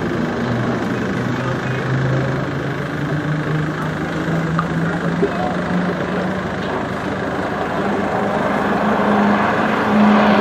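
Pilatus PC-9 turboprop trainers with Pratt & Whitney PT6 engines flying an aerobatic display: a steady propeller-and-engine drone whose pitch climbs slowly throughout, over a broad rushing noise.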